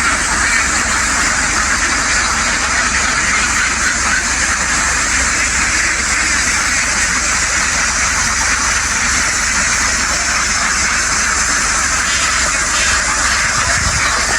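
A very large flock of ducks quacking all at once, a continuous dense chatter, over a steady low hum.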